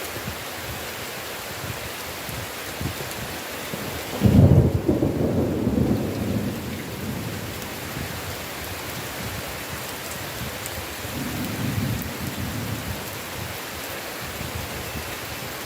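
Heavy rain falling steadily, with a sudden loud clap of thunder about four seconds in that rumbles on for a couple of seconds, and a fainter roll of thunder later.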